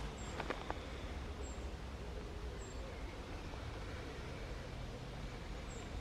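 A small bird giving short, thin, very high calls about once every second or so, over a steady low background rumble. A few footsteps sound at the start.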